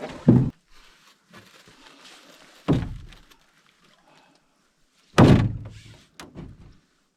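Three heavy thunks about two and a half seconds apart, each with a short dying tail, as packed camping gear is handled, with light scuffling between them.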